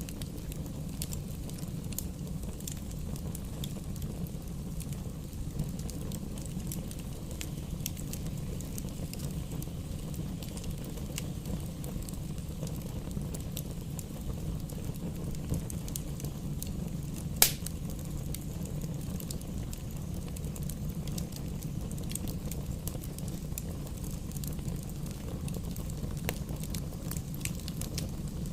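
Campfire burning with a steady low rush and scattered crackles and small pops from the burning wood, with one much louder sharp pop a little past the middle.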